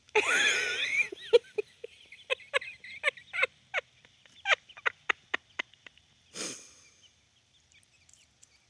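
Hens calling: a high squawk that slides in pitch, then a run of short, spaced clucks.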